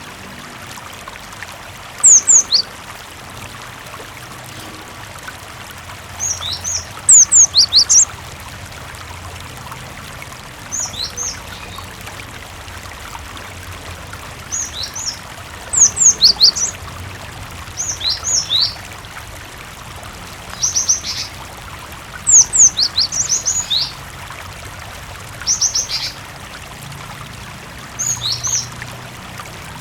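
Cinereous tit (gelatik batu) calling in short bursts of sharp, high chirps about every two seconds, over a steady sound of running water.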